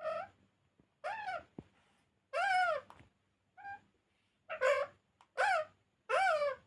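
Pet parrot giving a series of seven short calls, each rising and then falling in pitch.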